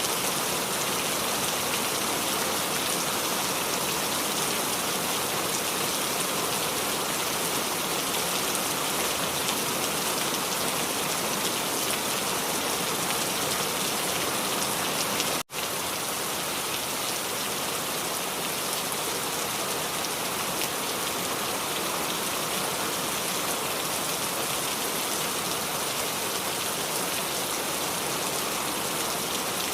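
Steady rain falling and dripping on the leaves of a small tree. The sound cuts out for an instant about halfway through, then carries on unchanged.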